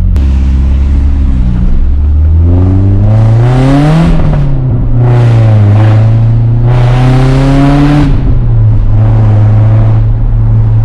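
Straight-piped Nissan 240SX four-cylinder engine accelerating: the revs climb, drop at a gear change about four seconds in, climb again and drop about eight seconds in, then hold steady.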